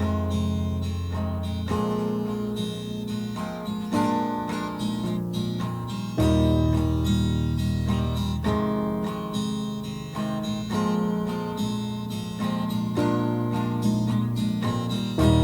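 Acoustic guitar playing an instrumental intro: picked chords over held bass notes, the chord changing every few seconds.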